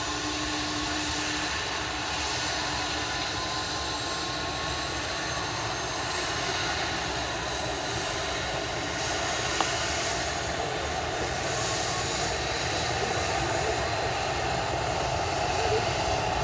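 Helicopter engine and rotor running, a steady rushing noise with a thin, high, steady whine on top, growing slowly louder toward the end.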